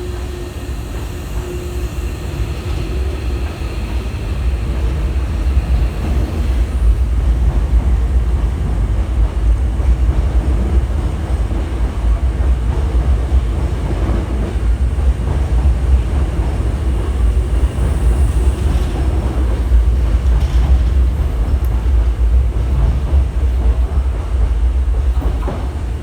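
Hankyu electric train running out of the station, its wheels and motors rumbling on the rails. The rumble grows over the first several seconds, holds steady, then cuts off abruptly near the end.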